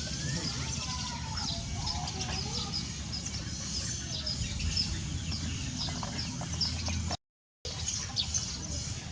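Birds chirping: many short, high chirps over a steady low rumble, with a few lower gliding calls in the first few seconds. The sound cuts out for about half a second near the end.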